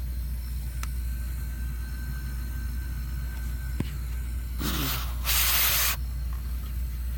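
Jun-Air 15-litre compressor running with a steady low hum. About four and a half seconds in, a loud burst of compressed air hisses out for about a second and a half, then stops suddenly.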